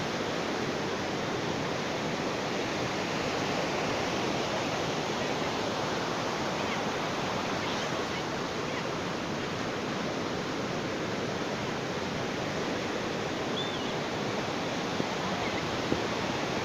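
Ocean surf: a steady, unbroken rush of waves washing on a beach.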